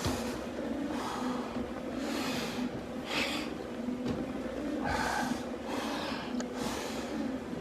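A climber breathing hard, with heavy breaths roughly once a second, over a steady low hum.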